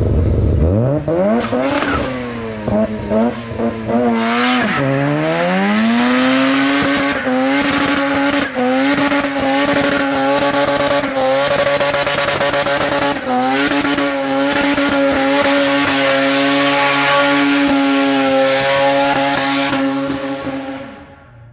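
Car engine revving up, then held at high revs for a long burnout, with tyres squealing and spinning over a steady hiss. The engine drops off suddenly near the end.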